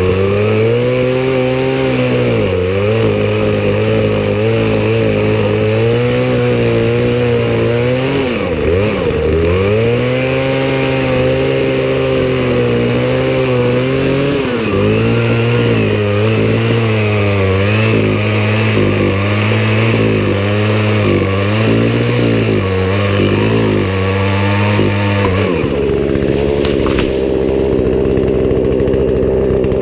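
Poulan Pro two-stroke gas chainsaw running loud, its engine pitch rising and falling as it is revved and loaded in cuts, with a deep drop about nine seconds in. Near the end it settles into a steadier, lower run.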